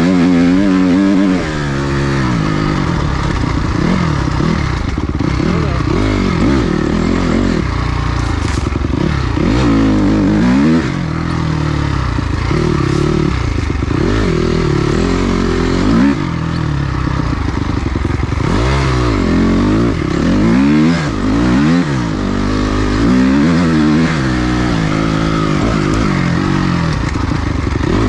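Dirt bike engine being ridden hard on a trail, its revs rising and falling over and over as the throttle is opened and shut and the gears change.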